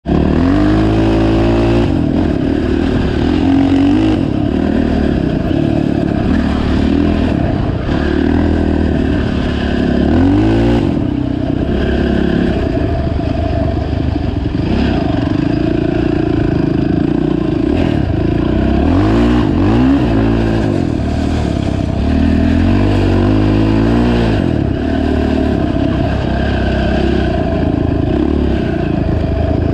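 Honda TRX450 ATV's single-cylinder four-stroke engine revving under riding, its pitch climbing and dropping back again and again.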